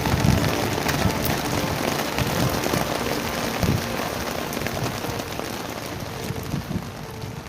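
Heavy summer downpour: rain pouring steadily with dense pattering of drops hitting surfaces, gradually getting quieter toward the end.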